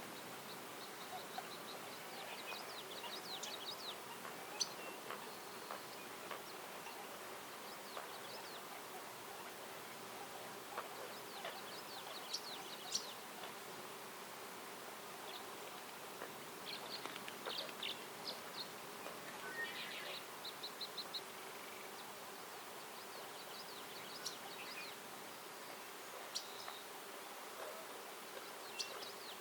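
Songbirds singing in the woods: short phrases of quick, high repeated notes every few seconds, with a buzzy call about two-thirds of the way through. Under them runs a steady soft hiss and a faint continuous hum.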